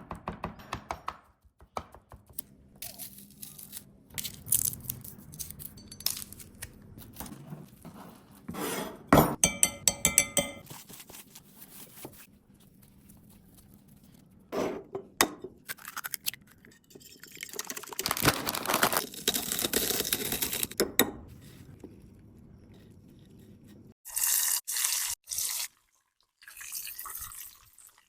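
A run of food-preparation sounds for crumb-coated chicken balls: wet handling and liquid sounds, clinks of dishes, and crisp crunches.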